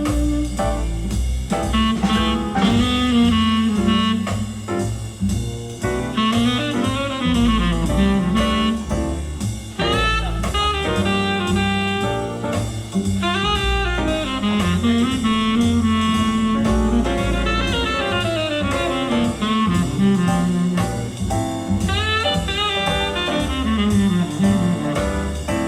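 Jazz recording with saxophone and drums, played back from an SACD over YG Acoustics loudspeakers in a demo room.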